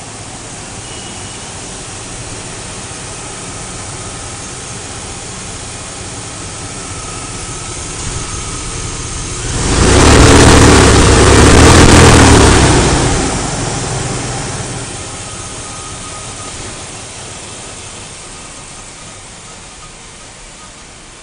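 2003 Dodge Durango's 4.7-liter V8 idling, revved once about ten seconds in for some three seconds, then settling back to idle.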